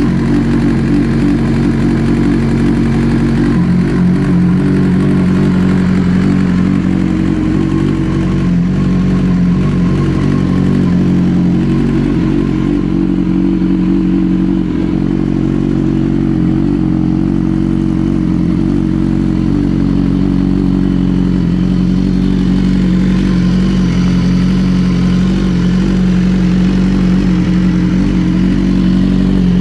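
BMW HP4's inline-four engine idling steadily.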